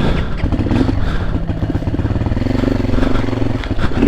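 Dirt bike engine revving hard and unevenly under load, the revs rising and falling, as the bike struggles for grip on a slippery, leaf-covered trail.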